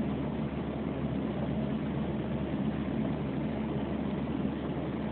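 Steady rain falling, a continuous even rushing noise with a faint low hum beneath it.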